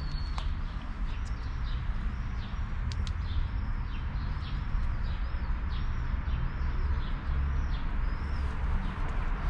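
Small birds chirping over and over, short rising-and-falling chirps about one or two a second, over a steady low rumble of background noise.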